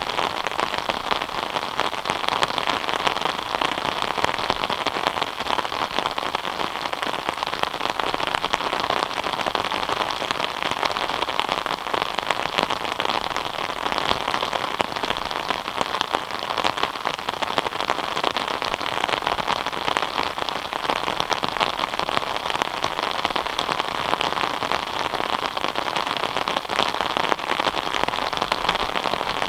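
Steady rain falling, many small drop impacts blending into an even hiss.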